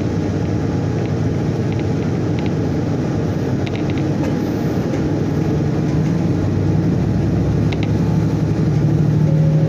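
Diesel local train heard from inside the carriage as it pulls out of a station: a steady rumble of engine and wheels, with the engine note growing slightly louder over the last few seconds as the train gathers speed. A few faint clicks come through the rumble.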